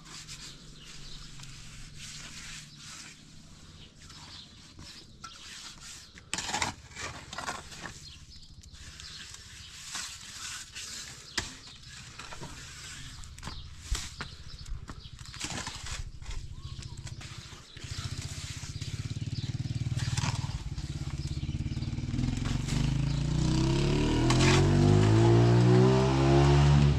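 Scattered knocks and scrapes over a low hum, then an engine that grows louder and rises in pitch over the last several seconds.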